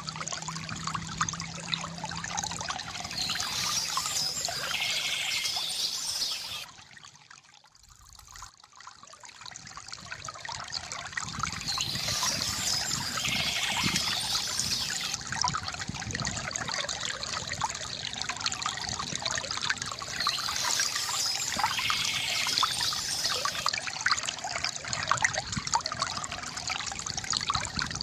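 Water trickling and splashing steadily from a bamboo fountain spout, briefly dropping away about seven seconds in and swelling back. Birds chirp now and then above the water, about every nine seconds.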